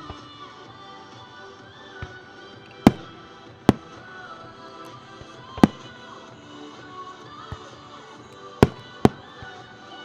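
Fireworks going off: five loud, sharp bangs and a couple of fainter ones at uneven intervals, the two last loud ones half a second apart, over music playing.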